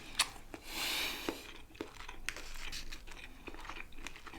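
Close-miked eating: a crinkling, rustling noise for about a second near the start, then scattered small clicks of chewing on food.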